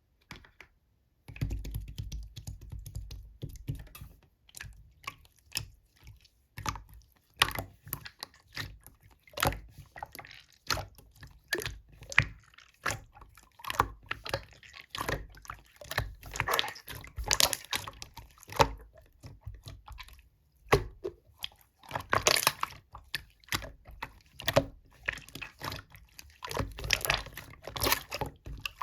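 Slime being squeezed, poked and stretched by hand, giving a continuous run of irregular sticky clicks, pops and squelches of varying loudness.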